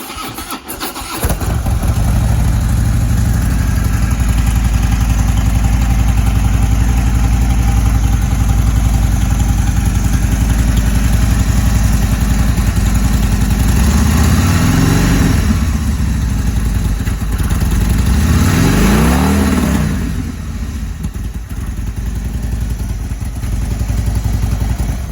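A 2016 Harley-Davidson Dyna Switchback's High Output Twin Cam 103 V-twin, breathing through a Vance & Hines 2-into-1 exhaust, cranks and starts, then idles steadily. It is blipped twice, about 15 and 19 seconds in, each rev rising and falling back to idle, and it cuts off right at the end. It sounds healthy and solid-running.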